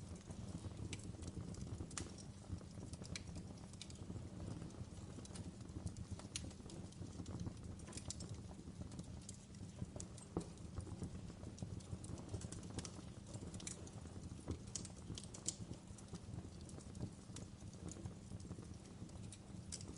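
Wood log fire crackling in a fireplace: irregular sharp pops and snaps, a few a second, over a low steady rumble.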